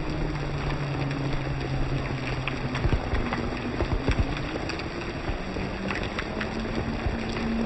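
Storm noise: strong wind and heavy rain in a dense steady rush, with scattered sharp ticks and a faint steady low hum underneath.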